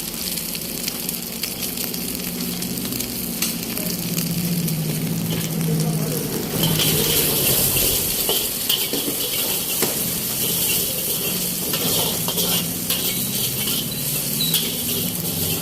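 Food sizzling as it fries in a hot wok, with a metal spatula clicking and scraping against the pan as it is stirred. The sizzle grows louder about six and a half seconds in.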